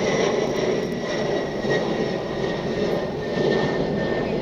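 Embraer E175 regional jet's twin turbofan engines running: a steady rumble with a thin high whine that drifts slightly lower.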